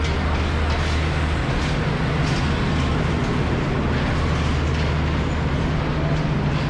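A train's locomotive engine running at a steady low hum, over a constant background of railway-station noise.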